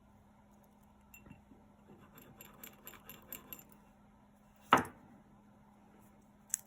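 Beads of a necklace clinking and jingling as it is handled, then one sharp knock about three-quarters of the way in and a short click near the end.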